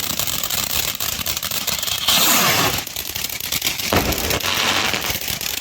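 Consumer fireworks going off: a dense crackle of small pops throughout, with a louder rush of hiss about two seconds in and more hissing near the end.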